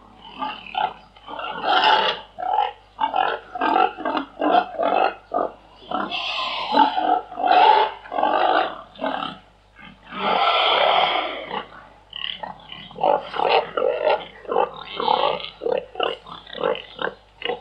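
Domestic pigs grunting in many short, rapid grunts, with two longer squealing calls, one about six seconds in and one about ten seconds in.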